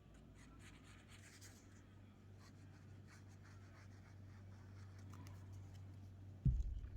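Soft scratchy strokes of a glue stick rubbed along the edges of a sheet of paper, with a single dull thump on the work surface near the end.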